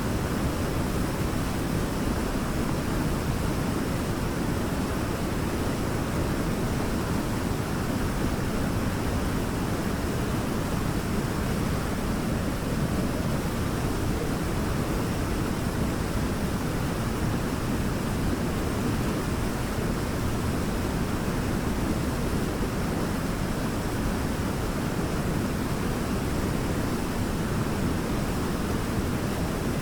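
Waterfall rushing: a steady, even roar of falling water, strongest in the low range, with no breaks or changes.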